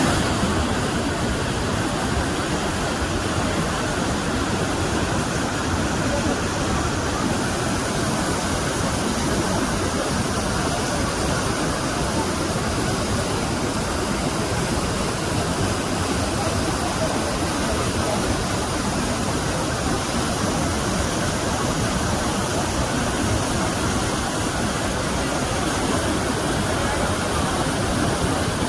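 Dhuandhar Falls, a large waterfall on the Narmada river, rushing in a loud, steady, unbroken wash of falling water.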